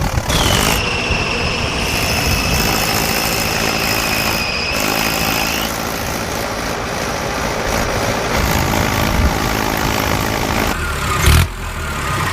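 Tractor engine running steadily. For about five seconds near the start a steady high whistle-like tone sounds over it, and there is a brief loud knock near the end.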